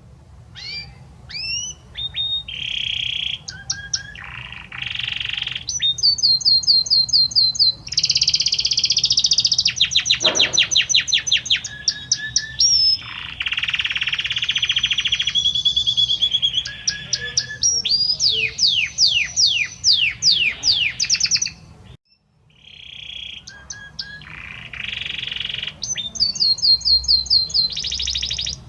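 Male Belgian canary singing a long, varied song of rolling trills and runs of quick falling notes, with a short pause about 22 seconds in before it starts again.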